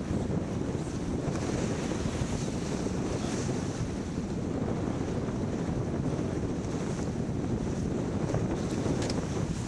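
Steady wind buffeting the microphone over the rush of water along a sailboat's hull while under sail.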